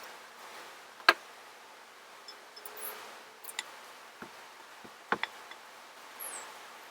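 A few sharp clicks and knocks of food-preparation utensils and containers being handled, the loudest about a second in and a quick double click around five seconds, over a faint steady hiss.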